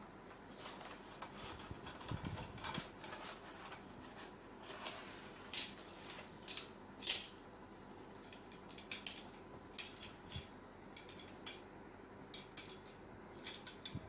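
Irregular light clicks and clinks of thin metal barbecue grill parts being handled during unboxing, with a sharper clack about halfway through.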